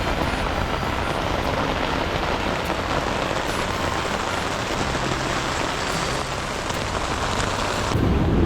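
Rain pouring down steadily in a thunderstorm, a dense even hiss that cuts off abruptly near the end.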